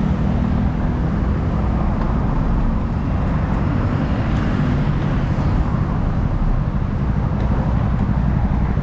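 Steady road traffic noise heard while cycling along the road, a constant heavy low rumble with a faint engine hum under it.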